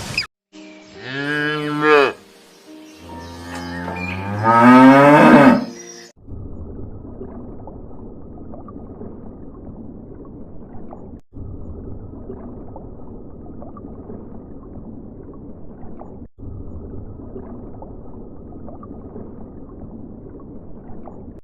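Cattle mooing: a short call about a second in, then a longer, louder moo that rises in pitch. After that, a steady low rumbling noise without calls.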